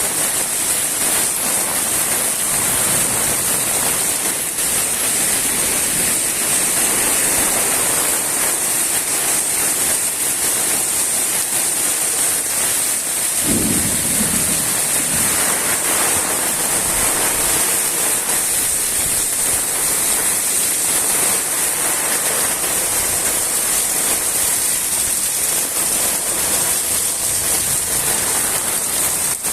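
Fairly heavy rain falling steadily, a loud even hiss. About halfway through there is a brief low rumble.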